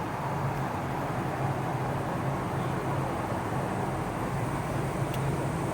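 Steady low rumble of a vehicle on the move, an even hum with road noise that holds without change.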